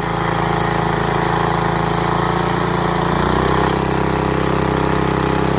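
Sears garden tractor's engine running steadily under mud-bogging load; about three seconds in its note shifts to a new steady pitch.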